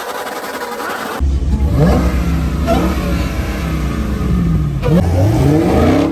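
Car engine revving hard with a deep rumble, the pitch climbing and falling back twice, after a cut from a steadier, different-sounding first second.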